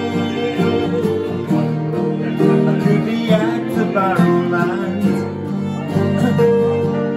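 Live acoustic folk music played by a small group, led by strummed guitars with a wavering melody line over them.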